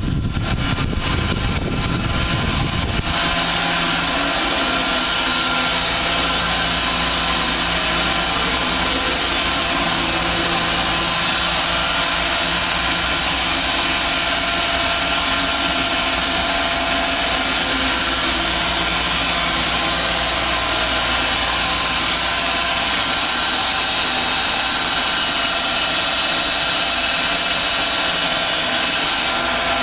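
High-pressure wash pumps and their motors running in an automated truck wash's pump room: a loud, steady mechanical drone with several steady whining tones.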